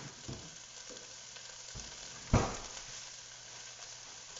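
Rice sizzling gently in a pan of butter and white wine as it absorbs the wine, with one sharp knock a little past two seconds in.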